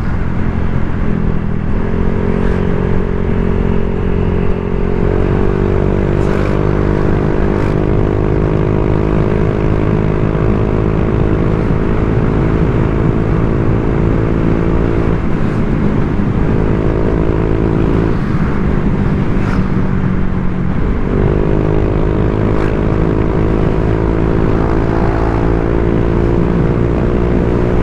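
Honda Vario 125 scooter's single-cylinder engine running under way through an aftermarket TZM-style racing exhaust, a steady engine note. A few times the throttle eases off and opens again, so the note drops away and then rises.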